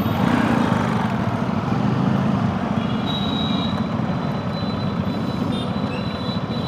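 Scooter engine running steadily amid road traffic: a low engine drone under road noise. A faint thin high tone sounds for a second or so around the middle.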